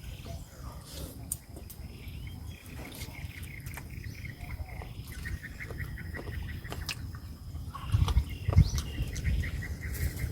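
Mouth sounds of someone eating close to the microphone, chewing and smacking, with scattered light clicks; the chewing grows louder about eight seconds in.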